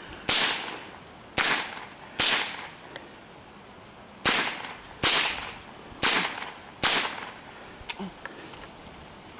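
.22 LR rifle firing seven shots at an uneven pace of about one a second, with a short pause after the third, each crack trailing off in an echo. A few fainter sharp ticks follow near the end.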